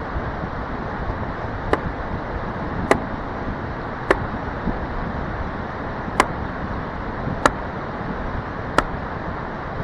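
An axe striking into a knotty log being split, six sharp wooden knocks about a second and a quarter apart, over a steady background hiss.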